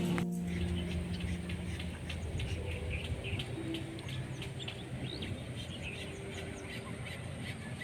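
Birds chirping: many short, high chirps repeating quickly, over a low steady background rumble.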